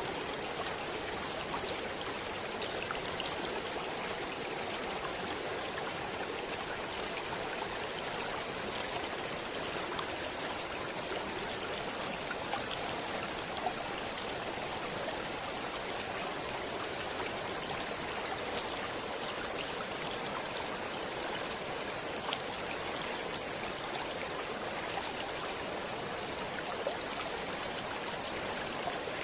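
Stream water flowing steadily, an even rush with small scattered splashes.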